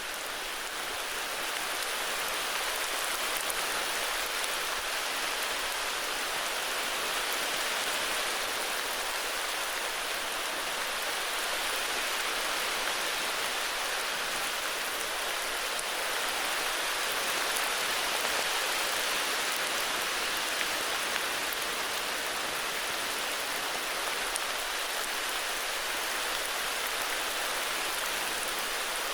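Steady heavy rainfall, an even hiss of many drops.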